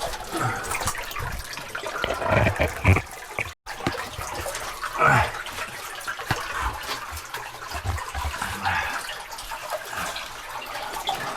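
Water trickling and splashing in a narrow cave passage, mixed with irregular scuffs and knocks of a person crawling through it.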